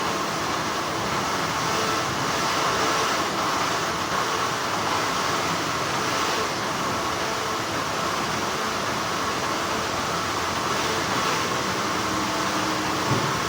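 Steady, continuous hum of textile factory machinery, with a single brief click near the end.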